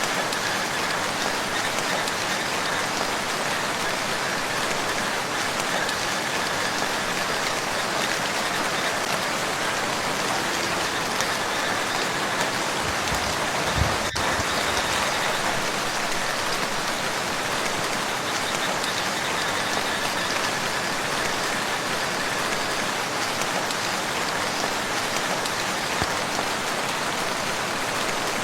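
Steady rain falling on a lake's surface, a dense even patter of drops. About halfway through there is one brief low thump.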